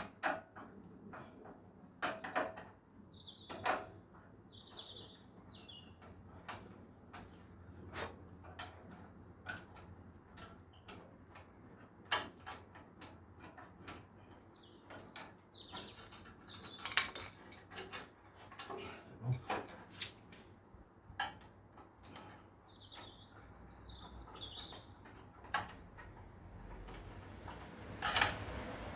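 Irregular metallic clinks and knocks of hand tools and exhaust parts being worked loose, with birds chirping in the background twice.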